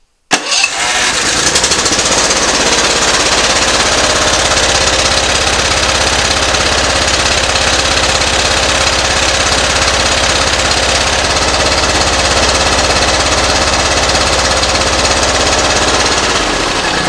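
Briggs & Stratton Professional Series 724cc V-twin mower engine running roughly with one spark plug wire pulled off. The running does not change, because that cylinder is already not firing: the owner suspects a dead plug or a bad coil on that side. It dies away near the end.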